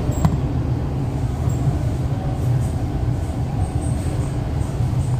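MTR East Rail Line R-Train electric multiple unit running, heard from inside the car: a steady low rumble with one sharp click about a quarter second in.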